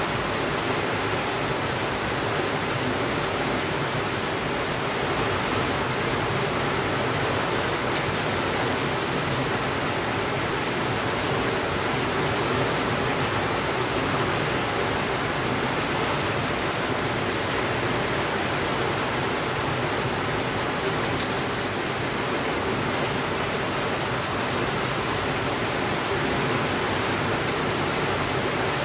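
Steady rainfall, an even unbroken hiss, with a few faint ticks.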